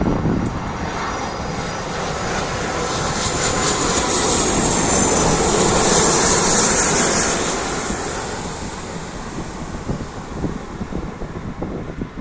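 Airbus A330-200 twin jet engines passing on landing. The noise swells to a peak about six to seven seconds in, then fades away, with a high engine whine falling in pitch as the aircraft nears.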